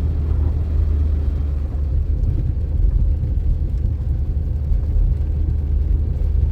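A steady, loud low rumble with no distinct events.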